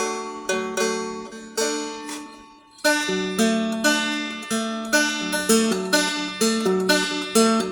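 Seagull Merlin, a small dulcimer-style fretted instrument, being played: plucked melody notes, about two a second, over a steady drone string, with a short break just before the middle.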